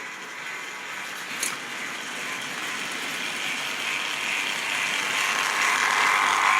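Model railway train running on track: the locomotive's small motor and gears whir while the wheels run on the rails, getting steadily louder as it comes nearer. There is one sharp click about a second and a half in.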